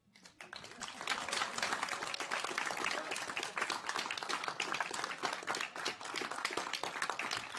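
A room full of people applauding, many hands clapping fast and densely, swelling up within the first second and then holding steady.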